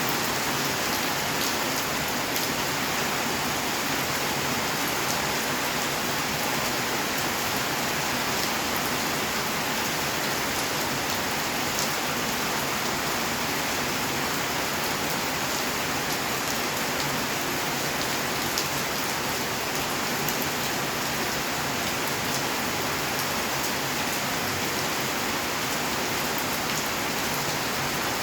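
Steady rainfall, a constant hiss with the patter of drops hitting surfaces and a few sharper individual drips.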